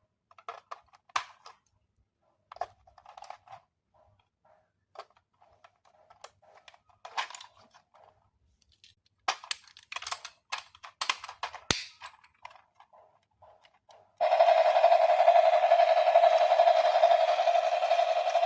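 Irregular clicks, taps and rattles of plastic being handled, with short silent gaps. About 14 seconds in, loud electronic music starts suddenly and runs on steadily.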